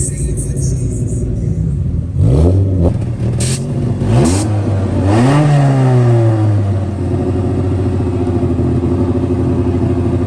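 Car engine idling and revved in a few quick blips about two to five seconds in, each rising and falling in pitch, then settling back to a steady idle.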